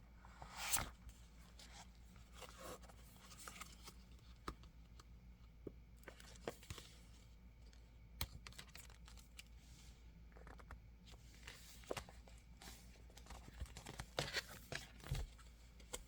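Thin plastic planner cover being handled and pressed against a board: scattered soft clicks, rustles and crinkles, with a louder rustle about a second in and a cluster near the end.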